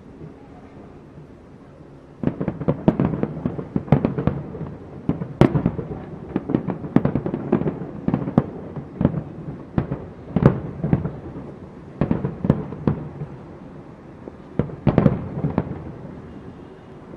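Aerial fireworks exploding in rapid succession: a low rumble, then a dense run of sharp bangs from about two seconds in, easing briefly before a last cluster and tailing off near the end.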